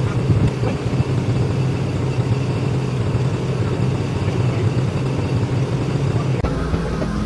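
Concrete truck engine running steadily at a constant speed. About six seconds in, the sound switches abruptly to a different, higher steady hum.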